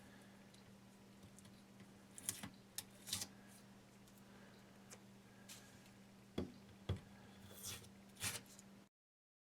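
Tape being peeled off a broken ceramic tureen held together for a dry-assembly rehearsal, with short tearing rasps, and the freed porcelain shards clicking and knocking as they are set down, about half a dozen sharp clicks in all. A low electrical hum runs underneath.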